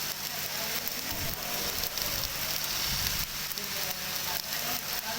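Electric arc welding: the steady crackling sizzle of the arc as a weld is run.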